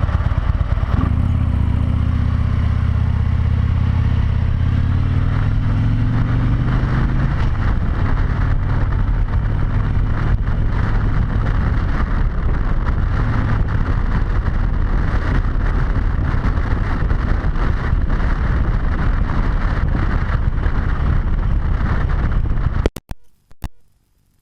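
Harley-Davidson V-twin motorcycle engine pulling up in pitch as it accelerates over the first several seconds, then running steadily at speed under heavy wind rush on a helmet-mounted camera. The sound cuts off abruptly near the end.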